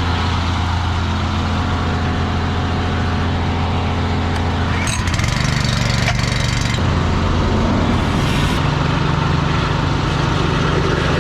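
Tractor diesel engine running steadily with a deep, even hum. Its note changes about halfway through and shifts again later.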